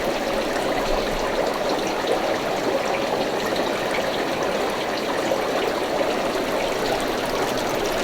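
Steady trickling and splashing of water from aquarium tanks' filters and overflows.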